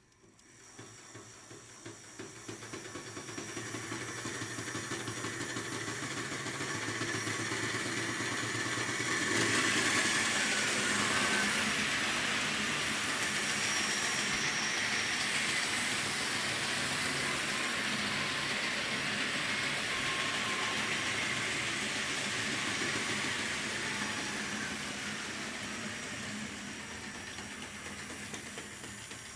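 Tyco HO-scale GG-1 model locomotive running on track: a steady whirring hiss from its small electric motor and wheels that builds up over the first few seconds, gets louder about ten seconds in, and eases a little near the end.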